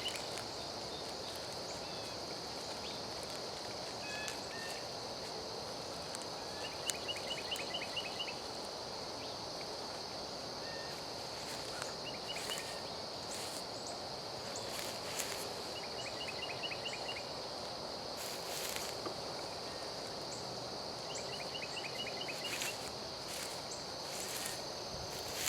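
Steady high-pitched insect chorus, with a short rapid trill that repeats every three to four seconds and occasional brief rustles and scrapes.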